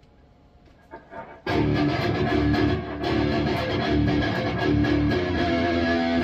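High-gain distorted electric guitar through a Bogner Uberschall preamp, playing palm-muted chugs. After a couple of faint picked notes, the loud riff comes in about a second and a half in and carries on, with a short dip about halfway.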